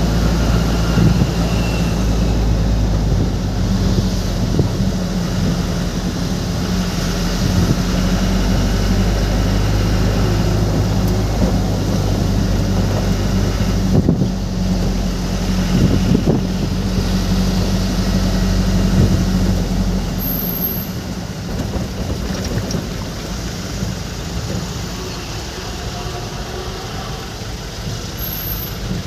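Truck engine running steadily, a low even hum; about twenty seconds in the deepest part of the hum drops away as it eases off toward idle.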